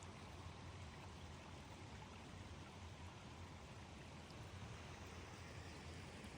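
Rain falling steadily: a faint, even hiss with no separate drops standing out.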